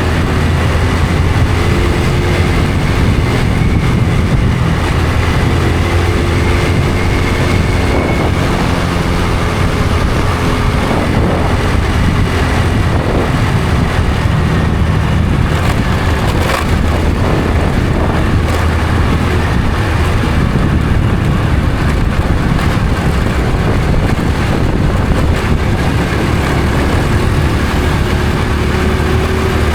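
Honda Supra X 125 FI's single-cylinder four-stroke engine running as the motorcycle rides along at a steady pace, its pitch rising and falling gently with the throttle, under road and wind noise.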